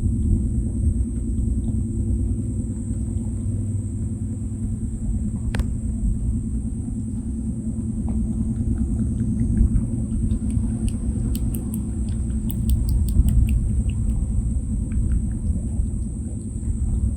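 Rabbit lapping water: a run of quick, faint licking ticks about two-thirds of the way through. They sit over a loud, steady low rumble and a constant high-pitched drone.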